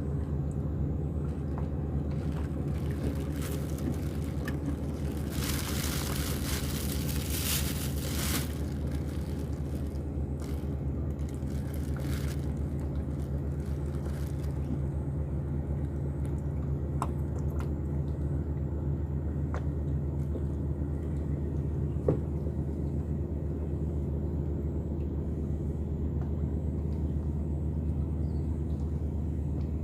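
An engine running steadily at an even speed, with a spell of hissing noise over it about five to eight seconds in.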